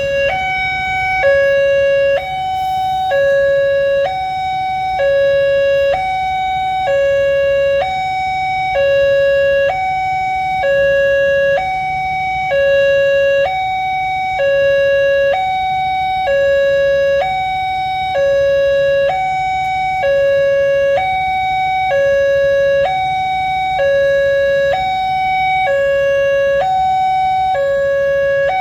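Electronic railway level-crossing warning alarm sounding a two-tone hi-lo signal: a lower and a higher tone alternate evenly, each held about three-quarters of a second, signalling that a train is approaching and the automatic barriers are closing.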